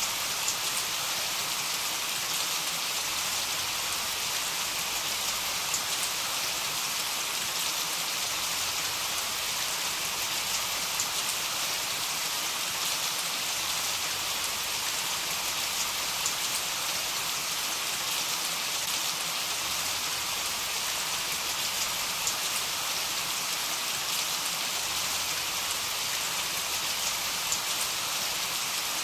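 Steady heavy rain falling, an even hiss with scattered faint ticks of individual drops.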